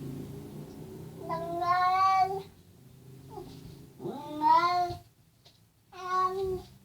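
Domestic cat making three drawn-out, wavering meows, the first the longest, the others shorter and about two seconds apart: the talking-like calls it makes straight after eating.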